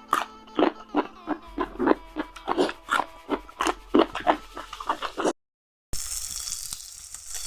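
Close-up chewing and crunching of fried chicken, several bites a second. About five seconds in it cuts out briefly, and a steady sizzle of chicken frying in hot oil begins.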